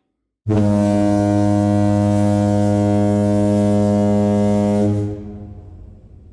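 A loud, steady, deep horn-like tone starts suddenly about half a second in, holds at one pitch for about four and a half seconds, then dies away in a fading tail.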